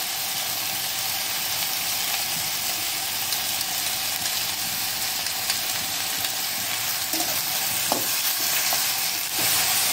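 Chopped taro flower rings frying in hot oil in a stainless steel kadai, a steady sizzle. Near the end a spatula stirs through the pan and the sizzle grows a little louder.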